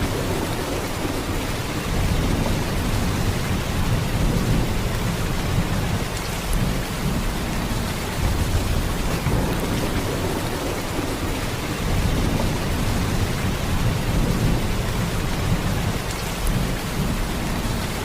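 Heavy rain falling in a steady downpour: a dense, even hiss with a deep low rumble underneath, swelling and easing slightly every few seconds.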